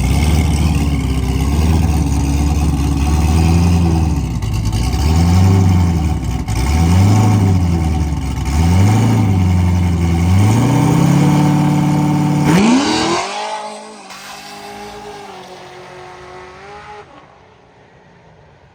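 Drag car's engine at the starting line, revved up and down in repeated bursts, then a hard launch about 12 seconds in as it pulls away down the strip. The sound drops off sharply and fades, with a couple of gear-change climbs heard further away near the end.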